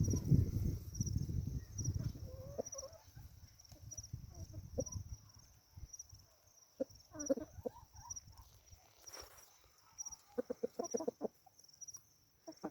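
Free-ranging chickens clucking in short, scattered calls, with a quick run of clucks near the end. A low rumble fills the first few seconds.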